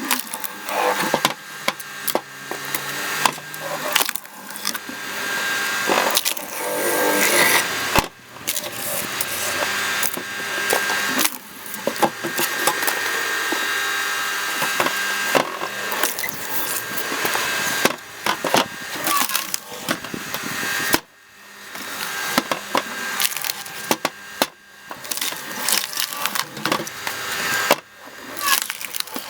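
Logs being split by a cone (screw) log splitter: the wood creaks and crackles with many sharp cracks as the cone drives in and the fibres tear, building up and then breaking off suddenly several times as pieces burst apart.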